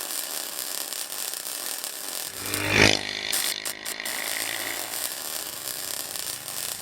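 Predator 212 minibike engine running, with one brief louder rev about three seconds in.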